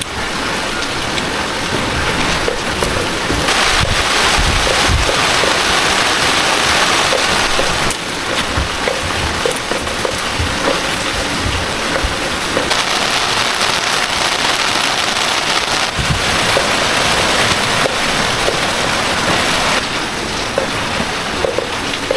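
Heavy rain falling steadily, coming down harder in two spells of several seconds each.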